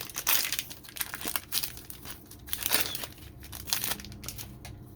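Plastic wrapper of a trading-card pack crinkling and tearing as it is ripped open by hand, in a run of irregular sharp crackles that thin out near the end.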